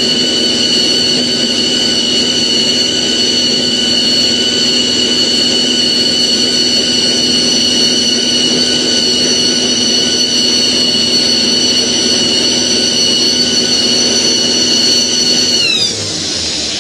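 A Kenworth semi truck's diesel engine held at high revs in a burnout, its drive tires spinning with a steady high-pitched screech. About 16 s in the pitch drops and the sound cuts off as the burnout ends.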